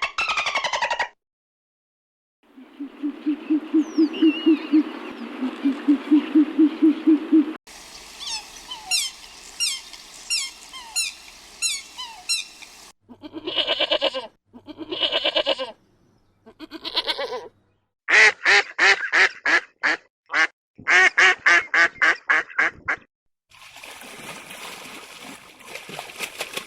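Waterfowl calling in a series of short clips cut one after another: ducks quacking and geese honking in bursts, with a stretch of repeated high chirps in the middle.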